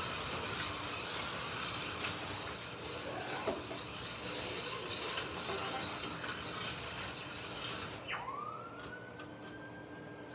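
Slot cars running on a plastic track, a steady whirring hiss of small electric motors and pickup braids. About eight seconds in the whir drops away and a single whine rises sharply, then falls slowly.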